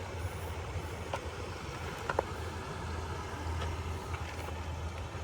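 A steady low engine hum, like a motor vehicle running at idle, over outdoor background noise, with a few faint clicks.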